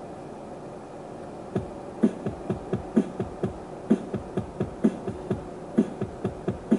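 Steady low running noise, then from about a second and a half in a quick, uneven run of sharp thumps, each dropping in pitch.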